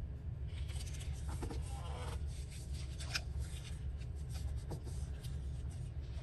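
Paper scraps rustling and being rubbed down, with a few light clicks, over a steady low hum.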